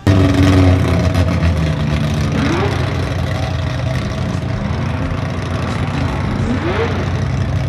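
A car engine running loudly and steadily, with two short rising sounds about two and a half seconds in and near the end. It cuts off suddenly at the end.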